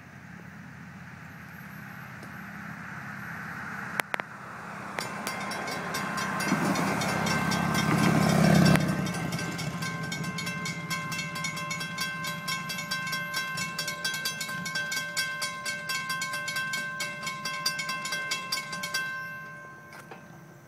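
Diesel-hauled freight train approaching and passing: the locomotives' engine drone builds to its loudest about eight seconds in, then the long string of cars rolls by with rapid, regular clicking of wheels over the rails and a steady high ringing, until the sound drops away near the end.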